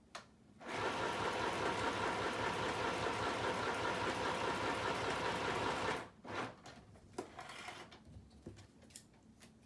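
Electric sewing machine stitching steadily through a plastic sheet and paper for about five seconds, then stopping, followed by a few light clicks and handling noises.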